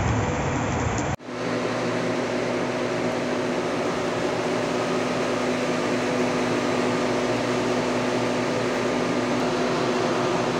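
Muddy floodwater rushing along a street for about the first second. After a sudden cut, a steady hiss of rain falling, with a faint steady hum beneath it.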